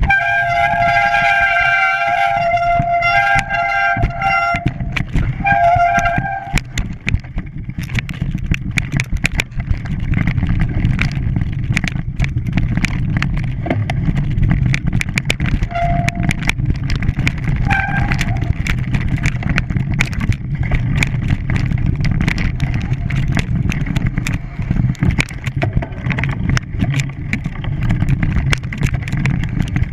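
A steady low engine rumble with frequent short clicks. In the first seven seconds a pitched, horn-like tone sounds in several steps, and it returns briefly twice later.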